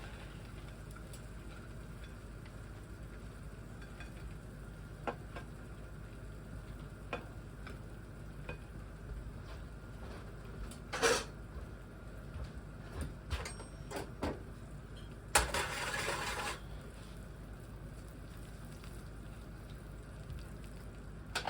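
Sparse clinks and knocks of kitchen utensils against pans and dishes, one stronger knock about halfway through, and a rushing burst of about a second near two-thirds of the way in.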